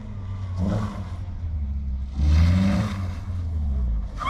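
Renault Clio II hatchback's engine revving as the car accelerates through a cone slalom: two surges of revs, a short one just under a second in and a louder, longer one about two seconds in, over a steady engine drone.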